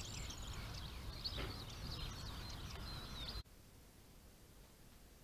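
Small birds chirping with short high whistled notes over a low outdoor rumble, cutting off abruptly about three and a half seconds in to a faint steady hiss.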